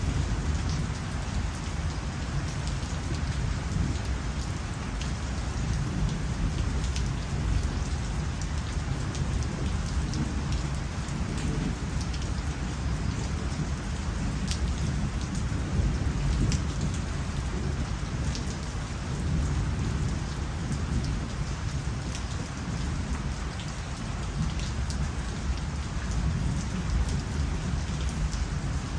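Steady rain falling, with scattered drops ticking close by over a constant low rumble.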